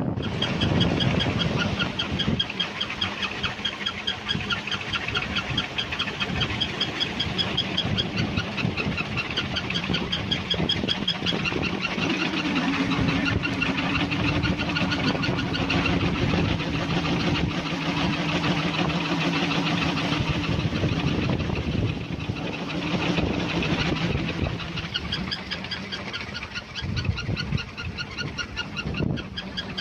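Strong wind buffeting the microphone, with a steady low drone that comes in about twelve seconds in and fades away about halfway through.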